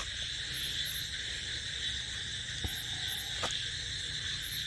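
Crickets trilling in a steady chorus, with a higher pulsed chirp coming in pairs every couple of seconds and a couple of faint clicks.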